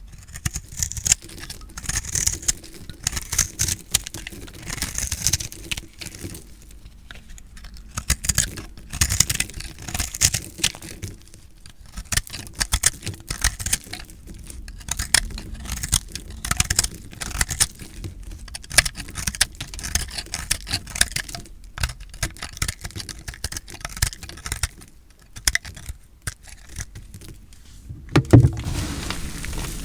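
A blade cutting through recycled soap: runs of crisp crackling crunches that come in strokes with short pauses between them, and a louder dull knock near the end.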